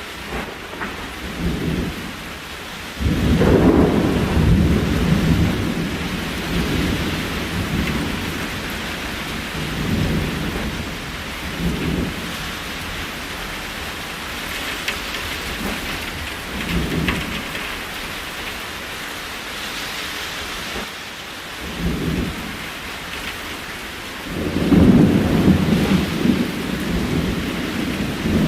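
Steady rain hissing on the cabin, with deep low rumbles swelling up in between: a long, loud one about three seconds in, several short ones through the middle, and another long, loud one near the end.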